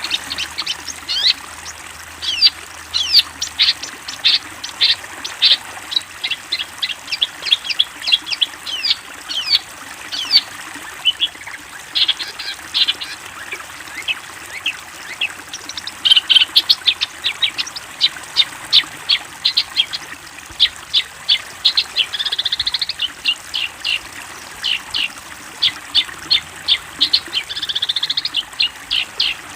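Long-tailed shrike (cendet) singing: a rapid, unbroken string of sharp high chirps, several a second, with a harsh buzzy phrase about two-thirds through and another near the end.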